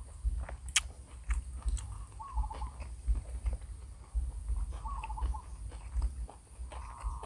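Close-up chewing of instant noodles, with many quick wet mouth clicks over low thuds; a brief faint wavering call recurs about every two and a half seconds behind it.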